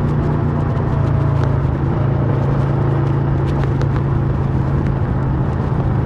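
Kawasaki Versys 650's parallel-twin engine running through a MIVV slip-on exhaust, holding a steady engine note.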